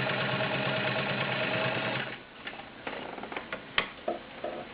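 Vintage all-metal Kenmore Model 65 sewing machine running steadily under its 1.2 amp motor, stitching through layers of garment leather, then stopping abruptly about two seconds in. A few sharp clicks and knocks follow as the machine is handled.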